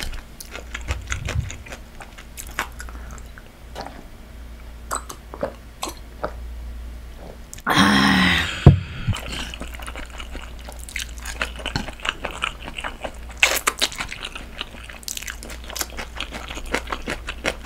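Close-miked eating sounds: wet chewing and slurping of spicy braised monkfish and somyeon noodles, with many small sticky mouth clicks. About halfway through comes a louder rush of sound while she drinks from a glass of water, then a sharp knock.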